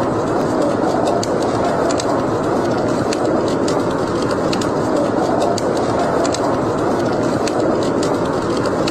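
Wood fire burning in a fireplace: a steady rushing noise of the flames with frequent sharp, irregular crackles and pops.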